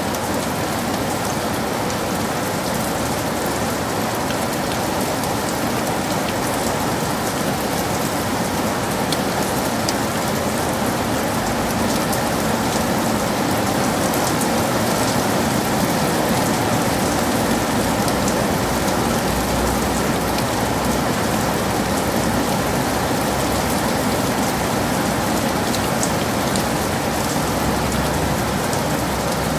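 Heavy rain falling steadily in a forest: a dense, even hiss of rain with scattered sharper drop ticks.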